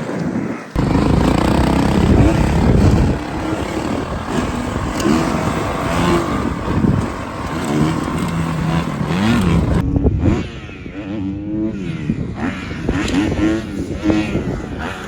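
Dirt bike engine revving hard, its pitch rising and falling repeatedly as the throttle is worked. The sound changes abruptly about a second in and again near ten seconds.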